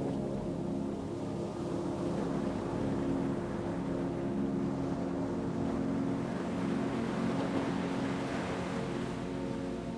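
Ocean wave surging in, swelling over several seconds and easing off near the end, over a steady low ambient music drone.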